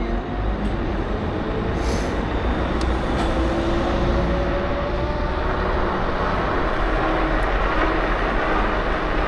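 Electric scooter on the move: steady wind and road noise, with a faint motor whine that slowly slides up and down in pitch.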